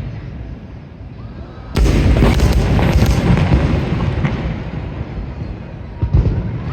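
Fireworks bursting: a loud boom about two seconds in sets off a few seconds of dense crackling bangs that slowly fade, then another single bang near the end.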